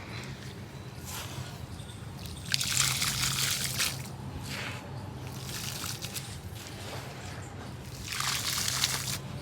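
Water poured onto gritty cement, trickling and sloshing with a crackly, grainy hiss in two spells, about two and a half seconds in and again near the end, over a low steady hum.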